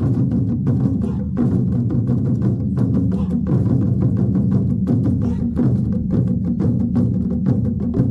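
A drum ensemble playing large, deep drums in a dense, driving rhythm, with many sharp clicks over the low drum tones.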